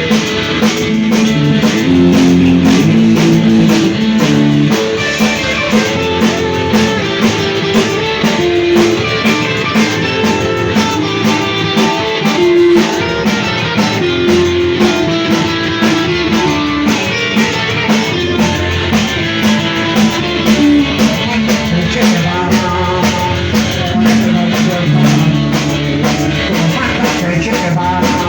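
A rock band playing live: electric guitar over a drum kit keeping a steady, driving beat.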